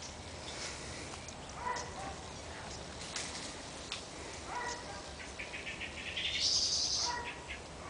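Songbirds calling: short calls about every three seconds and, about five seconds in, a quick run of notes climbing in pitch that ends in a loud, high flourish.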